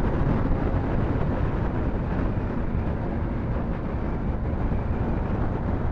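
Yamaha R15 V4 motorcycle's single-cylinder engine running steadily at highway speed, mixed with heavy wind rush over the microphone.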